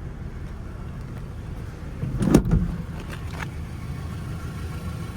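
A pickup truck's door unlatching and opening, with one solid clunk a little over two seconds in, then a couple of lighter clicks. A steady low rumble runs underneath.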